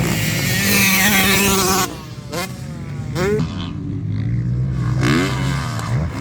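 Motocross bikes racing: one bike's engine is loud and close, its pitch wavering with the throttle for about two seconds before it cuts away. Then several bikes rev up in turn, each a short rising sweep in pitch as it accelerates, over the steady drone of other engines.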